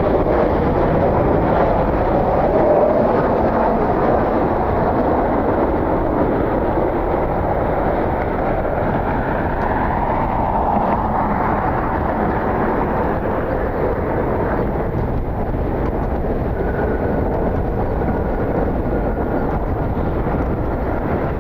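Jet airliner engines at high power, a loud steady roar that holds throughout, with a faint steady whine entering late on.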